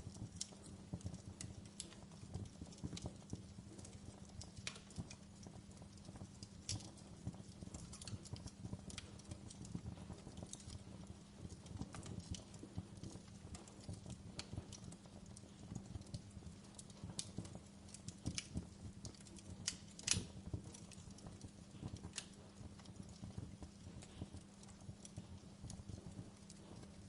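Wood logs burning in a fireplace, crackling with irregular sharp pops and snaps, the loudest about 20 seconds in, over a low steady hum.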